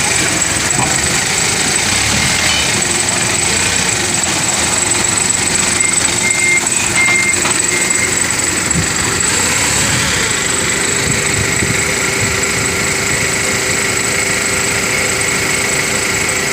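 Forklift engine running steadily while unloading parts from a container, with a few short high beeps about six seconds in.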